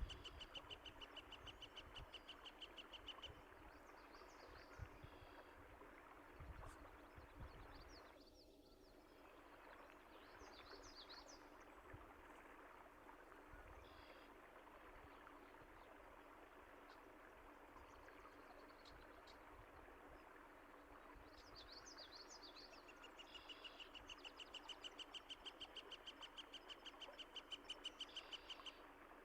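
Faint birdsong over a steady rush of running water. A bird gives a rapid repeated trill at the start and again near the end, with scattered high chirps in between.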